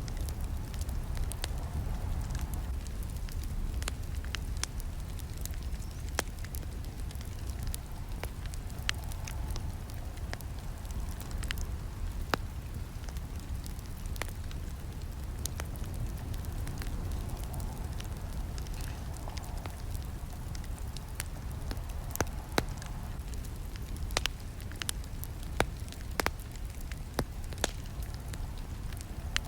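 Campfire burning, with frequent irregular sharp crackles and snaps over a steady low rumble of the flames.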